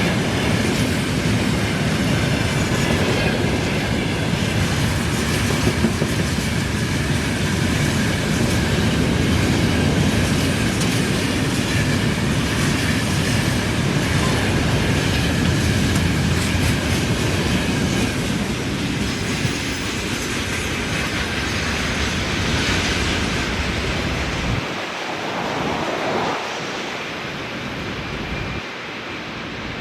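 A train's wagons rolling past on the rails with rhythmic clickety-clack and a faint wheel squeal; the rumble drops away about 25 seconds in as the end of the train passes and the sound fades.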